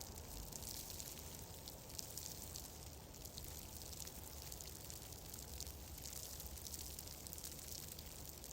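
Wood fire crackling softly in a fireplace: many small, fine ticks over a steady low rumble.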